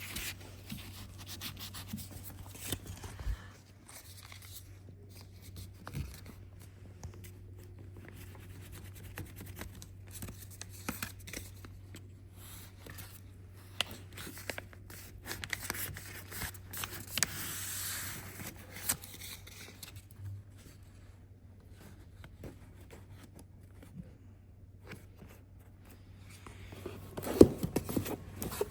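Rubbing and scraping handling sounds with scattered small clicks over a steady low hum, and a hiss lasting a few seconds around the middle.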